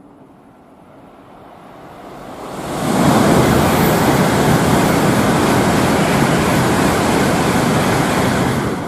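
Tokaido Shinkansen bullet train passing through a station at high speed without stopping: a rushing noise that builds as it approaches, comes up suddenly about three seconds in, holds loud and steady for almost six seconds as the train goes by, and starts to fade near the end.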